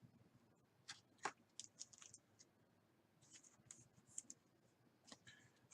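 Faint clicks and scratchy rustling of baseball trading cards and their packaging being handled, with a couple of sharper ticks a little after a second in.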